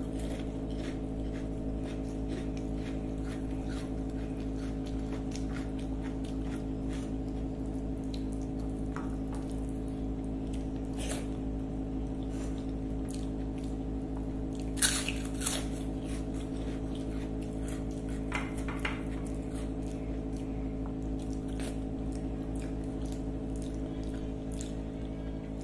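Close-up eating sounds: a mouthful of rice and crisp fried snacks being chewed, with wet squishing and a few sharp crunches, the loudest about fifteen seconds in. A steady low hum runs underneath.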